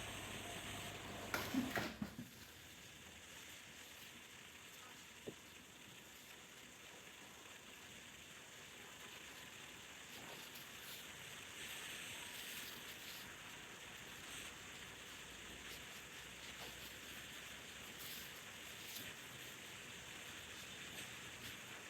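Faint handling of plastic toy pieces: a few soft knocks about one and a half seconds in and a single click about five seconds in, over a steady low hiss.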